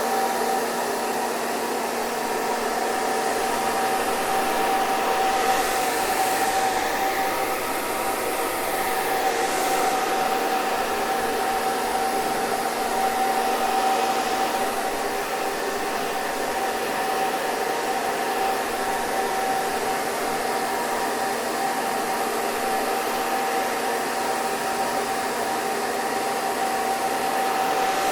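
Hair dryer running steadily: a continuous rush of blown air with a steady motor whine.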